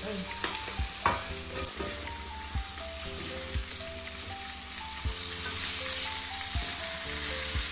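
Mee goreng with vegetables sizzling in a hot pan as it is stirred and tossed, with irregular knocks of the cooking utensil against the pan every second or so. A soft melody of stepping notes plays underneath.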